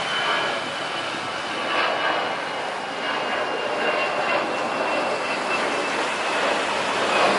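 Jet airliner engines running: a steady rushing noise with a thin high whine that slowly drifts lower in pitch.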